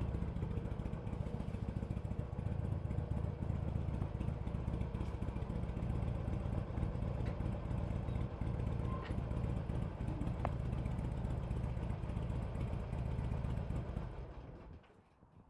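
Harley-Davidson Sportster Iron 883's air-cooled V-twin idling steadily through its stock exhaust, then dying away near the end.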